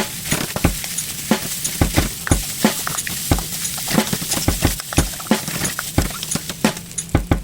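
Egg fried rice being stir-fried in a pan: a steady sizzle with a spatula clacking and scraping against the pan a few times a second.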